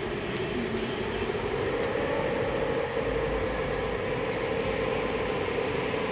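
Heavy rain and storm wind, a steady rushing noise with a droning hum that rises a little in pitch about two seconds in.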